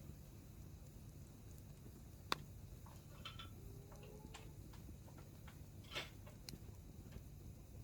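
Hardwood campfire crackling faintly: scattered small pops and ticks from the burning firewood over a low steady rumble, with a sharp snap about two seconds in and another about six seconds in.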